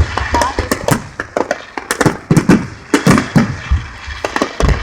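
Display fireworks going off in quick, irregular succession: sharp cracks and bangs with several heavy booms among them, the loudest near the end.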